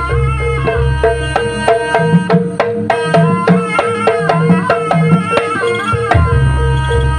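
Jaranan ensemble music: hand drums playing a quick, dense pattern under a steady held tone and a wavering melody line. The deep bass drops out about two seconds in and comes back near the end.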